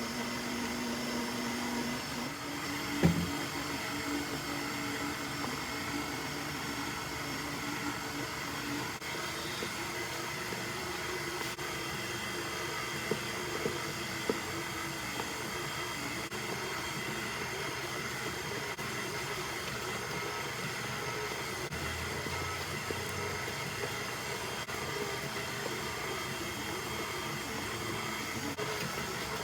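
Stand mixer with a paddle attachment running steadily on low speed, beating flour into cookie dough. A single knock about three seconds in and a few faint clicks later on.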